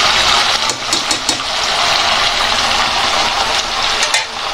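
Chicken curry sizzling in a steel kadai, a steady frying hiss, with a few clicks of the spatula against the pan about a second in and once near the end.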